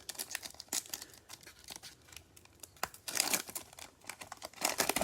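A trading card pack's wrapper crinkling and being torn open, with scattered light clicks and rustles of cards being handled, and two louder bouts of crinkling about three seconds in and near the end.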